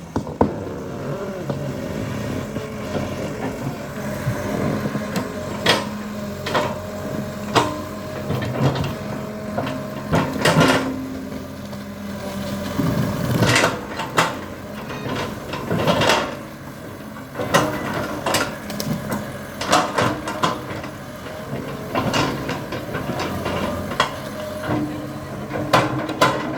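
Excavator's diesel engine running steadily, with frequent sharp knocks and clanks at irregular intervals.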